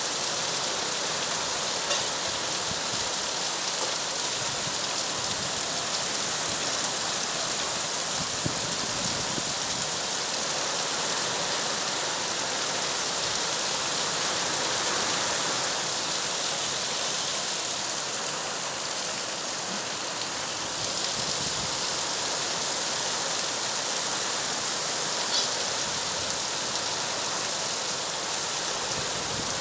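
Heavy rain falling steadily on surfaces, an even hiss of rain.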